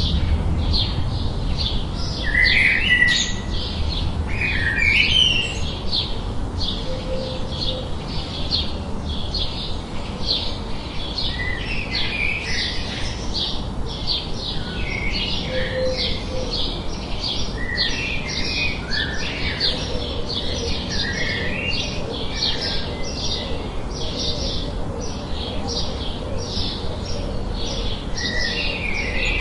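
Several birds chirping and calling in quick, repeated short notes over a steady bed of white-noise hiss.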